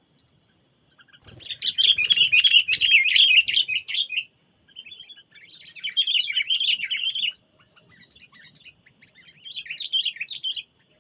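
A songbird singing close by in three bursts of quick, jumbled chattering notes. The first burst is the longest and loudest, and a faint low rustle or handling noise comes with it.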